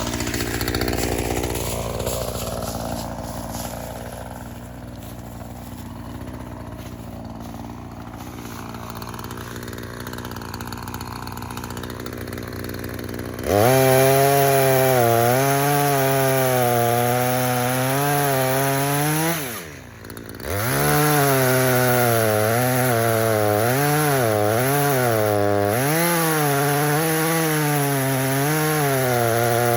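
Echo CS-3510 two-stroke chainsaw. It is quieter for the first 13 seconds or so, then revs up suddenly and loudly to high throttle, its pitch wavering. About 20 seconds in it drops off for a moment, then revs back up.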